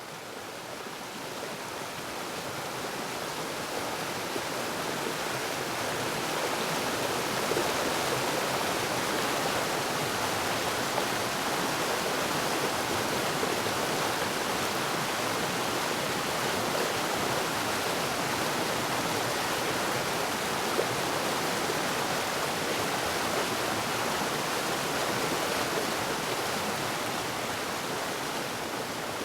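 Waterfall: a steady rush of falling water that swells in over the first few seconds, then holds even.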